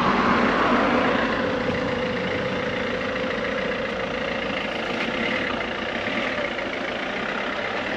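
A motor vehicle engine running, loudest about half a second in and then slowly fading.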